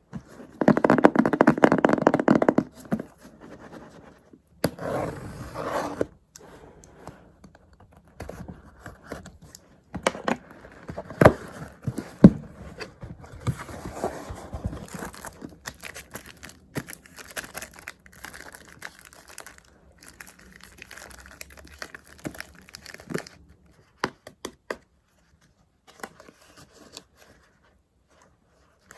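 Paper and stickers being handled on a desk: crinkling, peeling and rustling, with small taps and scrapes. The loudest crinkling comes in the first two to three seconds, then quieter handling with scattered sharp clicks.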